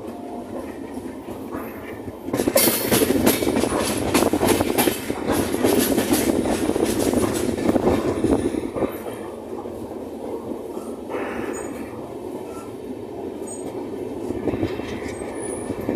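Passenger train coach running along the track, heard from its open side: a steady rumble that gets louder about two seconds in, with rapid knocking from the wheels on the rails, easing off after about nine seconds.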